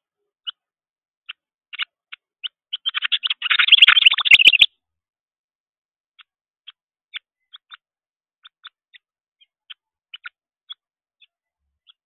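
Juvenile songbird begging: short high chirps that quicken a few seconds in into a rapid, loud chatter with a few sharp clicks, which breaks off abruptly. Scattered single chirps follow.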